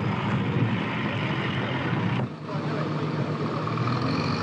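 Railway noise on an old film soundtrack: a steady rumble of trains moving through a busy terminus. It drops briefly about two seconds in, and a steady high tone rises over the rumble afterwards.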